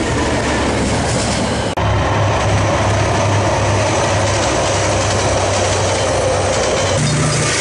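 Freight train passing close by: diesel locomotive engines running and the wheels of the container wagons clattering on the rails. The sound cuts off abruptly about two seconds in to another passing train with a steady low engine note.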